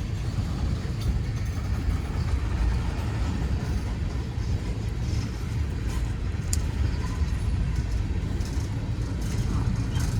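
Freight train cars rolling past: a steady low rumble with a few sharp clicks, one about six seconds in and more near the end.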